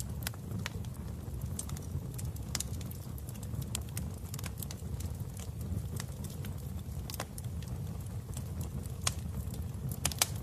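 Wood fire in a fireplace crackling: irregular sharp pops over a steady low rumble of flames, with a quick cluster of pops near the end.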